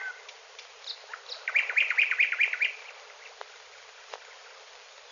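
Songbird calling: a few short high chirps, then a quick run of about ten notes lasting about a second, then a couple of single notes, over the steady hiss of an old film soundtrack.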